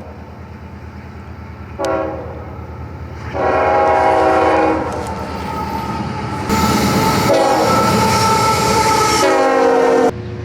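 Diesel-electric freight locomotive's multi-chime air horn sounding over the rumble of the passing train: a short blast about two seconds in, a longer blast soon after, then more horn from about halfway until it cuts off suddenly near the end.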